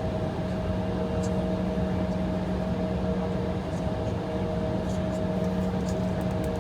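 Steady cabin drone inside an Embraer E175 with its engines idling: an even hum of engine and air-conditioning noise carrying a few constant tones.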